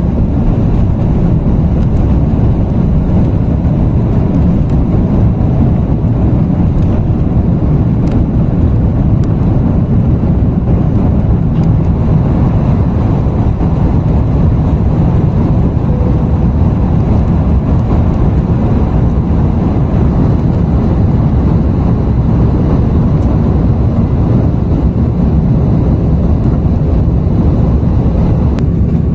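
Jet engines of an Airbus A330-300 at high thrust during takeoff and climb, heard from inside the passenger cabin as a loud, steady, deep rush of noise.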